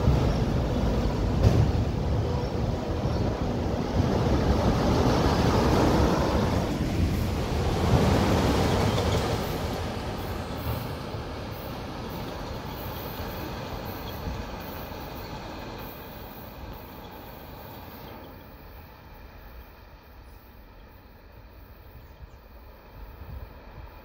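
Autorack freight cars rolling on the rails, loud at first, then fading steadily after about ten seconds as the end of the train goes by and recedes.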